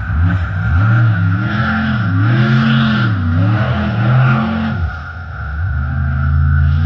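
Monster truck engine revving in repeated rising and falling surges, dipping briefly about five seconds in, then running steadily.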